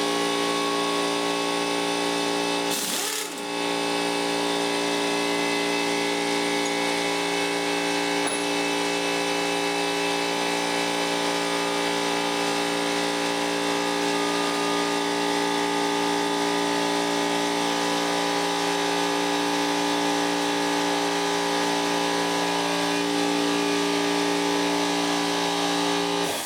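A machine motor running steadily at one constant pitch, dipping briefly about three seconds in, then cutting off suddenly at the end.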